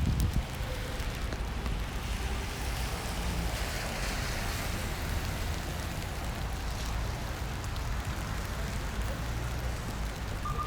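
Rain and traffic on a wet city street: an even hiss over a low rumble, swelling for a couple of seconds in the middle.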